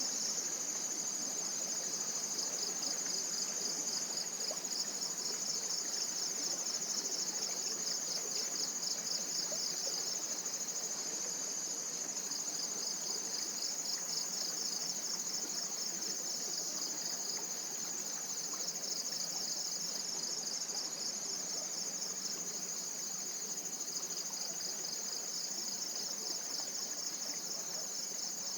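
Tropical forest insects chorusing: a continuous high-pitched trill with a fast, rapidly pulsing layer just beneath it, over a faint steady hiss.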